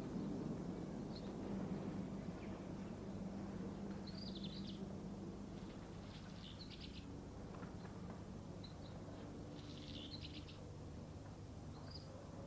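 Faint bird calls: short high chirps every couple of seconds over a low steady hum.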